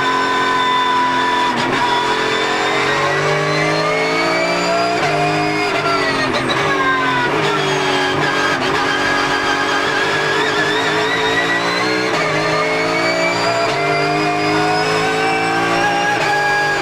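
A racing car's engine under hard driving, its pitch climbing and dropping several times with gear changes and braking. A high gear whine rides above it, sliding slowly up and down with speed.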